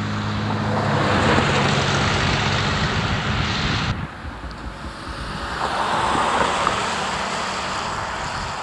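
An engine running steadily under rushing wind noise on the microphone. About four seconds in, the engine tone cuts off abruptly, leaving wind buffeting and a swelling rush.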